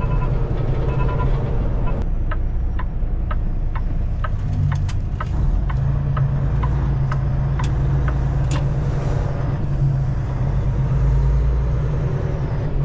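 Semi truck's engine droning steadily inside the cab while driving, with a run of sharp clicks, about two or three a second, from about two seconds in to about nine seconds in.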